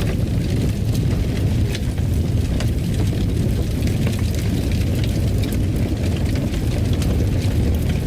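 Wood fire crackling: scattered sharp pops and snaps at irregular intervals over a steady low rumble.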